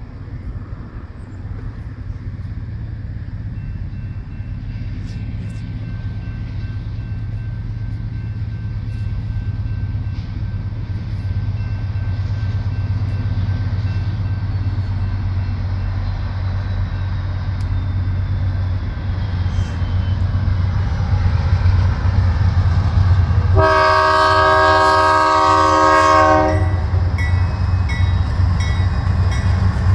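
Approaching BNSF intermodal freight train: the diesel locomotives' low engine rumble grows steadily louder as they near. About 24 seconds in, the lead locomotive sounds one long horn blast of several notes together, lasting about three seconds.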